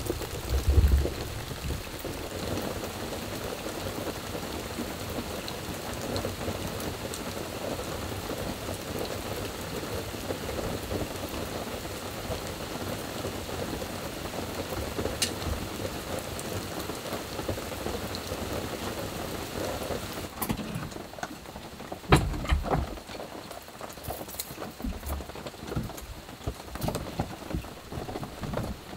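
Heavy rain pattering steadily on the roof of a light-truck camper, heard from inside the cabin. About two-thirds of the way through, the rain noise drops lower, and a single loud thump is followed by a few light knocks.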